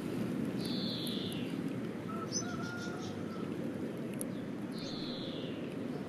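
Bird calls over steady low outdoor background noise: two short, falling, high-pitched calls, one about a second in and one near the end, with a few faint chirps and clicks between.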